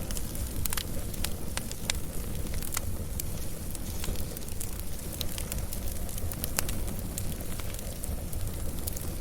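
Wood fire burning, with sharp, irregular crackles and pops over a steady low rumble of the flames.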